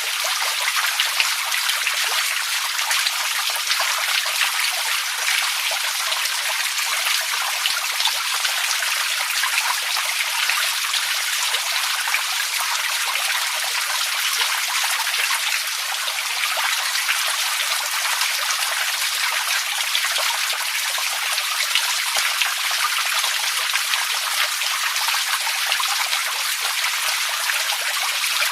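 Water running steadily: an even splashing, trickling hiss dotted with many small droplet ticks, with no breaks or changes.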